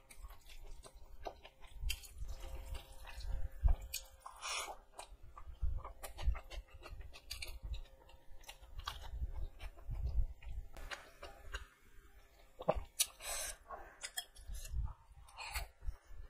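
Close-up eating sounds: chewing a mouthful of rice, boiled egg and chicken curry, with frequent sharp wet clicks and smacks of the mouth. Fingers squelch through curried rice on a steel plate.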